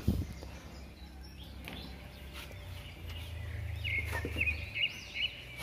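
Small birds chirping in the background, a quick run of short chirps in the second half, over a faint low hum. A soft knock right at the start.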